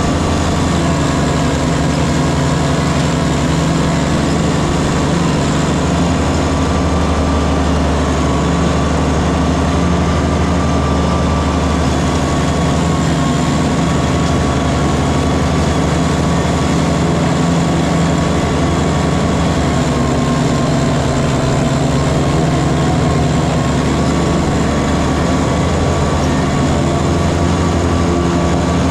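Kubota diesel tractor engine running at a steady speed, with a steady high whine over it.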